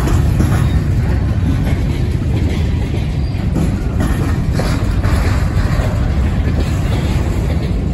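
Wheeling and Lake Erie freight train of covered hopper cars rolling past close by: a steady, heavy rumble of steel wheels on rail, with occasional wheel clacks.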